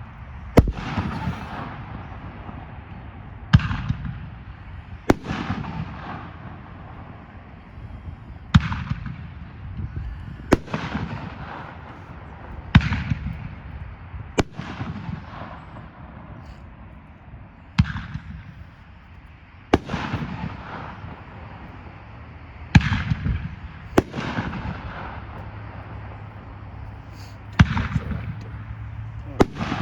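A consumer aerial firework cake firing shot after shot: about a dozen sharp booms spaced a second and a half to three seconds apart, each trailing off into a rumbling, crackling tail.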